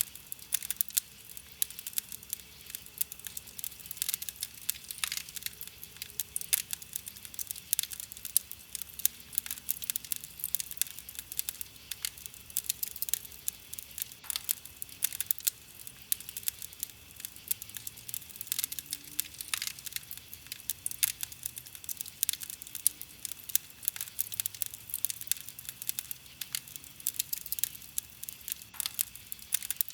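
Wood campfire crackling: a dense, irregular run of sharp pops and snaps, several a second, over a soft steady hiss.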